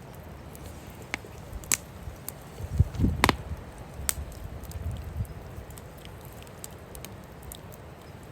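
Wood fire crackling, with scattered sharp pops, the loudest about three seconds in. Wind rumbles on the microphone in gusts.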